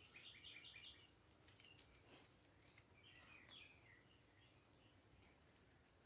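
Faint songbird chirping: a quick run of about six notes in the first second, then another short phrase about three seconds in, with scattered faint high clicks.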